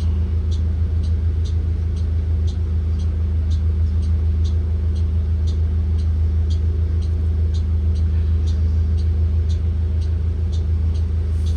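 Inside a 2023 Blue Bird Vision school bus under way: its Ford 7.3L gasoline V8 running with a steady low drone, with a light ticking about twice a second over it.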